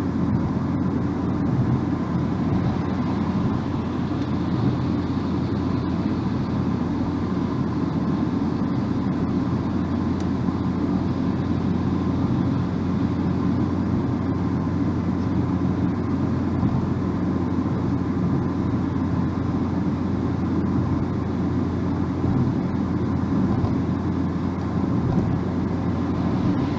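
Car driving at steady speed on a bypass road: an even, low rumble of tyres on the road surface with a steady engine drone underneath.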